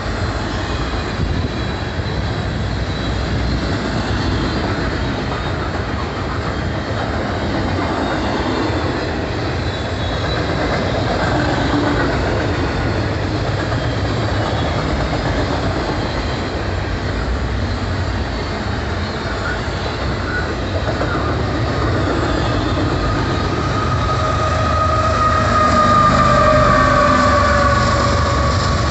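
Double-stack intermodal well cars of a freight train rolling past with a steady rumble and clatter of wheels on rail. The last few seconds grow louder as the mid-train GE ES44AH distributed-power locomotive draws near, and a high whine that dips slightly in pitch joins the rumble.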